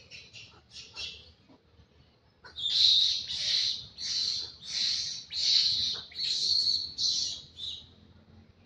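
A bird calling repeatedly with high, raspy calls: a few faint short ones at first, then a run of about eight louder ones at an even pace, each about half a second long.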